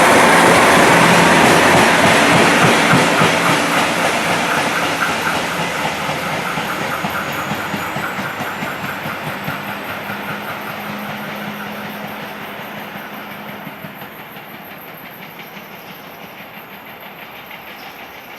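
KiHa 261 series diesel train pulling away and fading steadily, with a regular intermittent 'tan-tan-tan-tan' knock from the wheels: the sound of a flat spot on a wheel (wheel flat).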